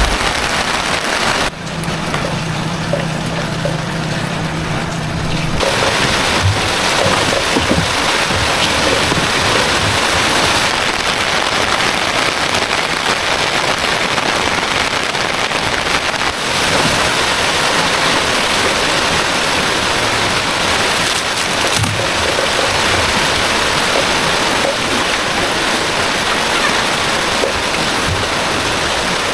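Heavy rain falling steadily, a dense even hiss, with a low steady hum for a few seconds near the start.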